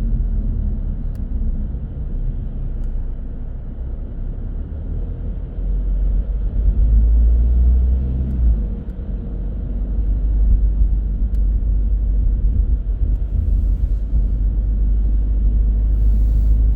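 Car driving on city roads: a steady low rumble of engine and tyre noise, heard from inside the car, that swells about six seconds in and again in the second half.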